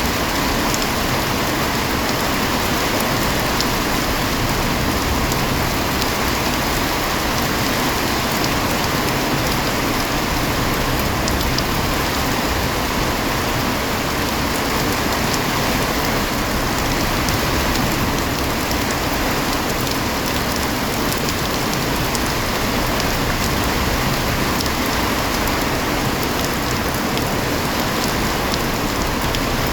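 Heavy rain falling steadily, a dense even hiss of drops striking surfaces, with fine scattered drop ticks throughout.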